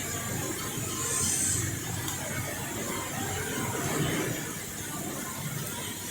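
Shop air compressor running steadily, a low hum with a high hiss over it, and a brief louder hiss about a second in.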